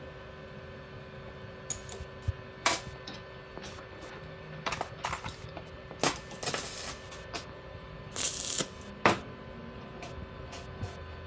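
Irregular metallic clicks and clinks of hand tools and small metal parts being handled on a workbench, with a few brief scraping sounds, the longest about eight seconds in. A steady faint hum runs underneath.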